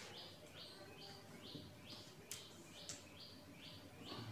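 Faint, regular chirping, about two short high chirps a second, from a bird calling in the background, with a couple of faint ticks.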